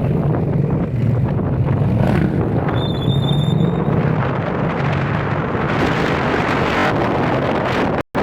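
Vehicle engine and road noise heard on the move, with wind buffeting the microphone. A short high squeal sounds about three seconds in, and the sound cuts out for an instant just before the end.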